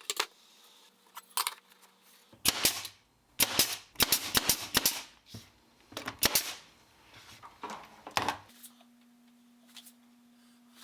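A series of sharp, irregularly spaced cracks, about a dozen in eight seconds, some in quick clusters, stopping about eight and a half seconds in.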